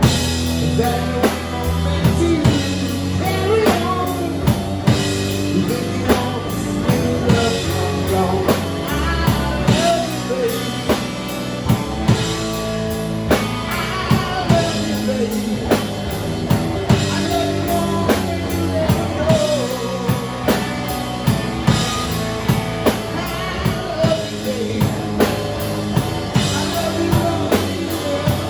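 Live rock band playing: a steady drum-kit beat under bass and guitar, with a wavering melody line on top.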